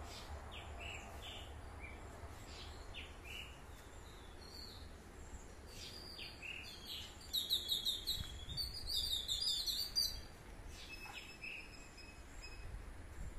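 Birds chirping, with short high calls scattered through and a run of rapid repeated song notes lasting about three seconds in the middle, over a steady low outdoor rumble.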